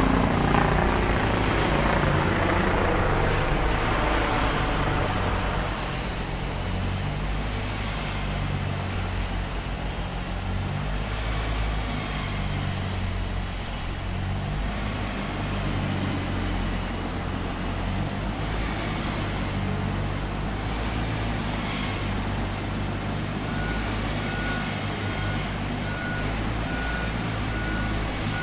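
Heavy vehicle engine running steadily with a low hum, while an aircraft passes overhead and fades out over the first few seconds. Near the end a reversing alarm starts beeping at a steady pace, about one and a half beeps a second.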